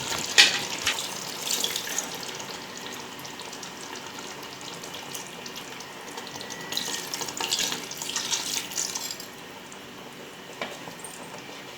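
Hot chicken masala gravy sizzling in a pot as water is poured into it, with a louder spell of pouring and splashing about seven seconds in, and a few clicks near the start.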